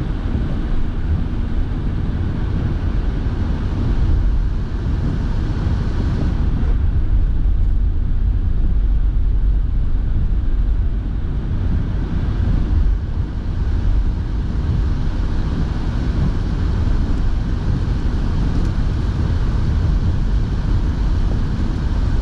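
Steady road and engine noise inside a moving car's cabin, with the heater fan blowing.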